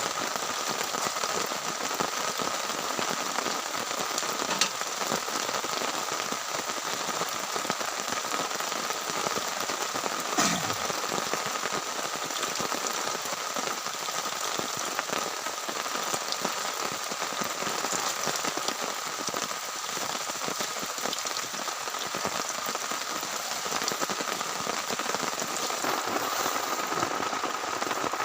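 Heavy rain falling steadily on a tent, with a couple of louder drops about five and ten seconds in.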